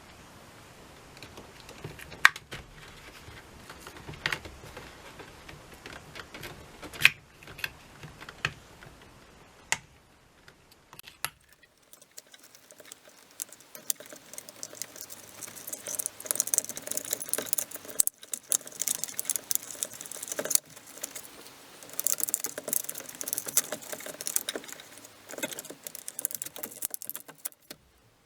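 Small hard parts being handled by hand: scattered clicks and knocks at first, then from about halfway a dense run of clattering and rustling.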